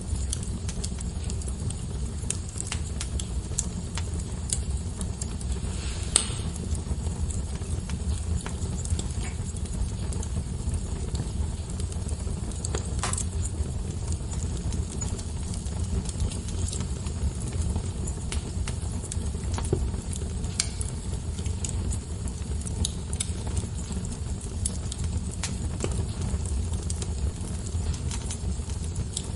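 Wood fire burning in a fireplace: a steady low rumble of flames with scattered crackles and a few sharper pops.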